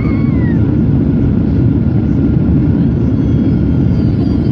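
Passenger airliner cabin noise during landing: a loud, steady low rumble of engines and airflow.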